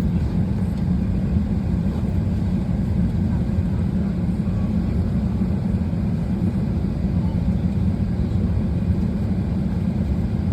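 Steady low hum inside an Airbus A320's cabin while it is parked at the gate before pushback: the aircraft's air-conditioning and ventilation running, with no change in level.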